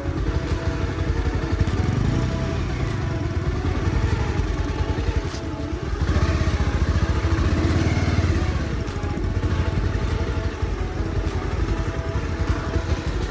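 Motorcycle engine running steadily, with the revs rising and falling about halfway through.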